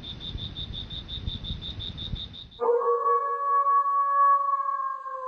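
Crickets chirping rapidly over a low rumble, then about two and a half seconds in a jackal starts one long howl that sags slightly in pitch.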